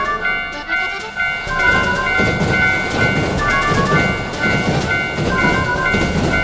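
A train running, a low rumble that eases off briefly near the start, over a background tune of short, high, held notes.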